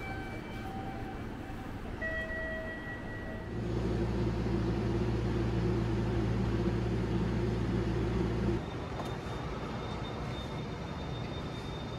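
Sunrise Seto sleeper train, a 285 series electric train, humming at the station platform: a steady low hum with a higher drone starts about four seconds in and cuts off abruptly about five seconds later. A few short high tones sound in the first seconds.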